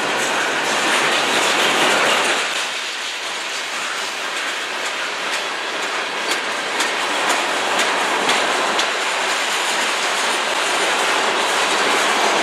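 Freight train of boxcars and tank cars rolling past, a steady rumble of steel wheels on rail with sharp wheel clicks from about a third of the way in.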